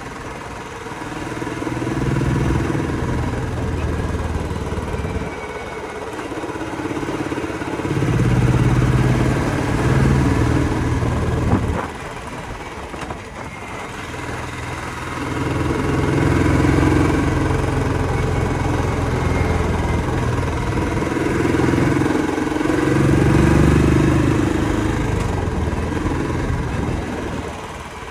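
Motorcycle engines running, growing louder and fading away again four times.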